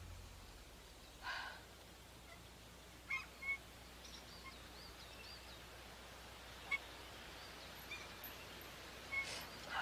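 Faint outdoor ambience with small birds chirping repeatedly, and several short, louder bird calls scattered through.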